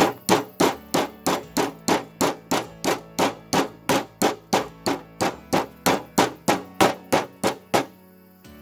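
Rapid, evenly spaced hammer blows, about three and a half a second, some two dozen in a row, stopping shortly before the end.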